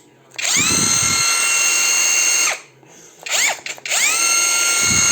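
JCB cordless power tool motor running with no load, trigger pulled in bursts. It spins up to a steady high whine, runs about two seconds and winds down, gives two short blips, then runs again for over a second.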